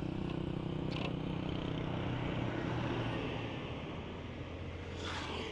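Honda ADV 160 scooter's single-cylinder engine running under way, with road and wind noise. Its note drops a little and gets quieter over the second half as the scooter eases off.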